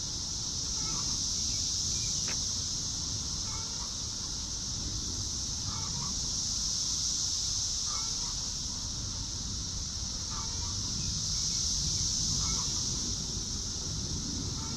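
A chicken giving short clucking calls about every two seconds over a steady high-pitched hiss.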